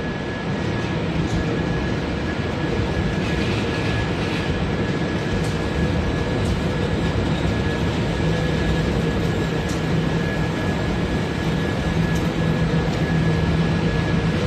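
Wood pellet production line machinery running steadily: a dense mechanical din with a low hum and a thin high whine held throughout, and a few faint ticks.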